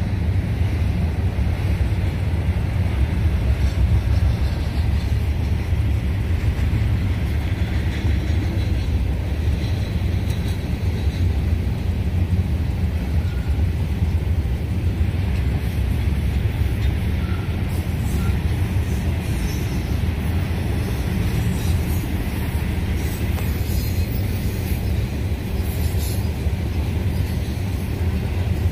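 Norfolk Southern freight train rolling past: a steady, low rumble of the cars going by, with a few faint light clicks in the second half.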